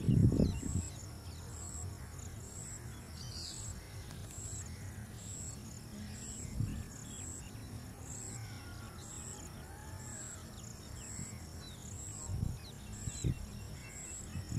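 Outdoor natural ambience with a short high chirp repeating steadily a little faster than once a second, faint bird calls, and a few low thumps.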